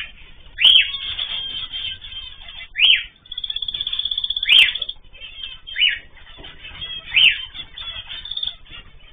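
Cage birds calling: five loud calls, one every one to two seconds, over steady fast chattering and trilling.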